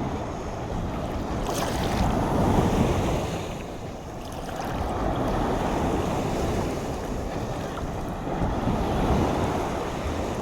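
Sea surf: waves breaking and washing in slow surges, loudest about two seconds in, with wind buffeting the microphone.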